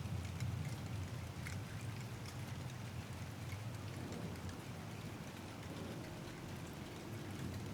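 Steady rain falling, with scattered single drops ticking close by, over a low rumble of thunder that fades away during the first few seconds.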